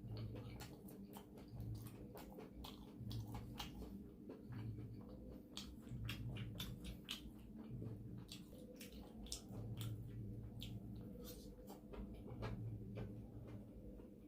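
Close-miked chewing and eating mouth sounds: many small wet clicks and smacks. Underneath is a low hum that swells and fades repeatedly.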